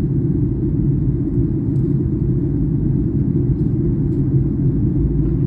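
Steady low rumble of a passenger airliner's engines and rushing air, heard from inside the cabin.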